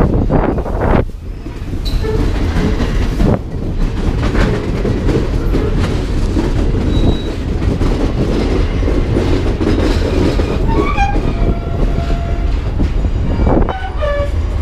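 Passenger train car rolling on the rails: a steady low rumble with wheel-on-rail clatter, and a few short high-pitched squealing tones near the end as the train rounds a curve.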